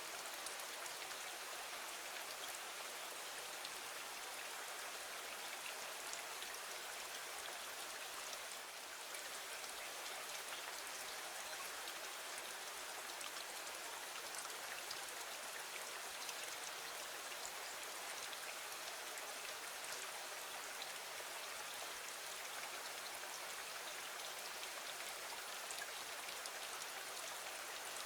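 Steady, gentle rain falling on a window: an even hiss of fine drops with scattered light ticks.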